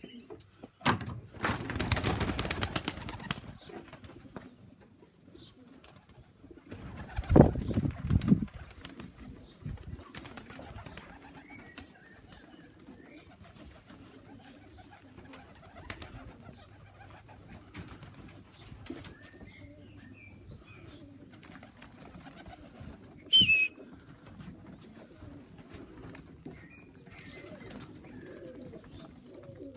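Domestic racing pigeons at the loft, with a rush of wing-flapping about a second in and low cooing under scattered light chirps. A louder rustling thump comes around seven seconds in, and a single short high chirp near the end.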